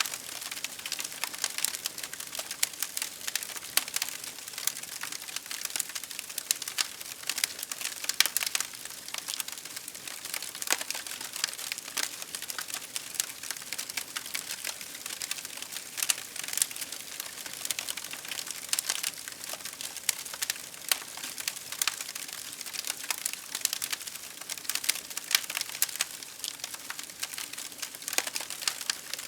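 Wood fire crackling: a steady hiss of flames with dense, irregular sharp pops and snaps.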